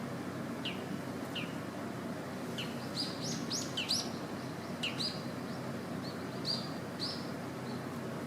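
Birds chirping: about a dozen short, high chirps, bunched in the middle, over a steady low background hiss.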